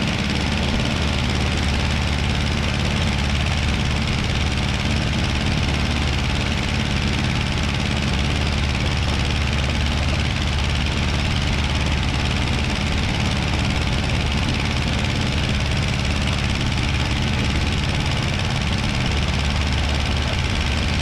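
Aeronca 7AC Champ's engine and propeller running steadily at climb power, a constant drone heard from inside the cabin.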